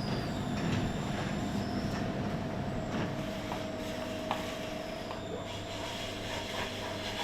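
Steady mechanical hum with a constant mid-pitched tone, and a few light clicks around the middle.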